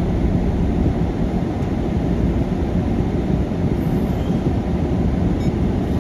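Steady low rumble of a car driving in a rainstorm: road, tyre and engine noise with no sudden events.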